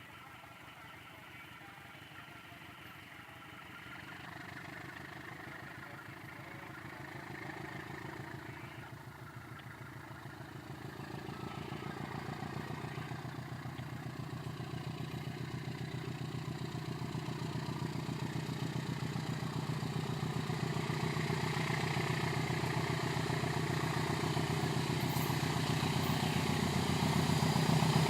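Diesel locomotive engine running with an even throb, growing steadily louder as the train comes closer.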